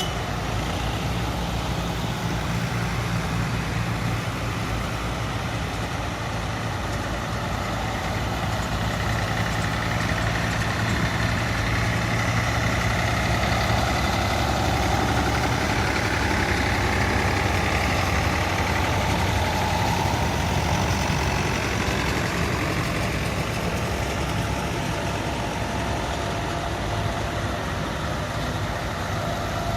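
A vehicle engine running steadily with a low hum, the overall noise swelling slightly midway.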